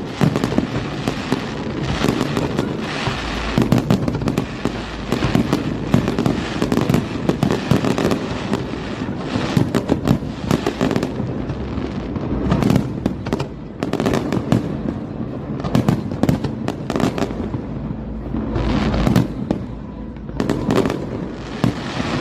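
Fireworks display going off: a dense, continuous run of overlapping bangs and crackling bursts.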